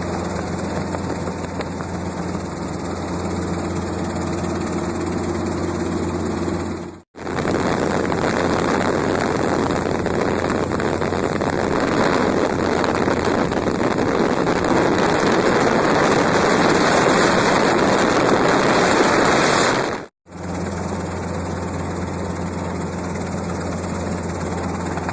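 Helicopter in flight: a steady low drone of rotor and engine made of several even tones. Two abrupt cuts bracket a stretch of louder, even rushing noise without those tones, and the drone returns after the second cut.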